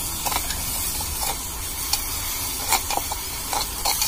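Onion paste frying in oil in a small pot, sizzling as it turns brown, while a small spoon stirs it with short scraping clicks against the pot every second or so.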